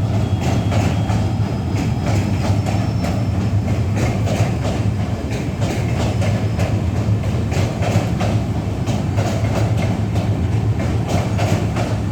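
Train running over a bridge, its wheels clattering over the rail joints above a steady low rumble.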